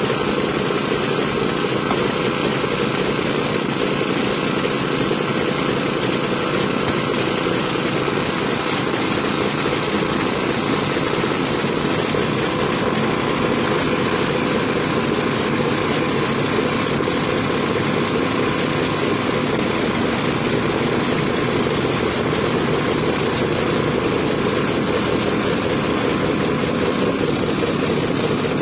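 An engine running steadily at an even speed, a loud continuous noise with no change in pitch or level.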